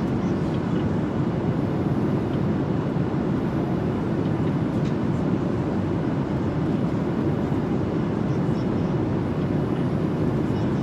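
Steady low rumble of an airliner cabin in flight, unchanging throughout.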